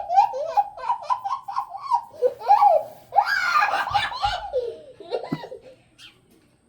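A young girl laughing hard in quick, high-pitched bursts, loudest and harshest about three seconds in, then trailing off near the end.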